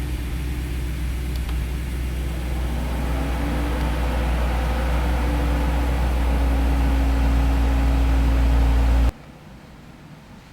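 BMW E93 M3's V8 engine running steadily at idle, with a deep, even hum. The sound cuts off suddenly about nine seconds in.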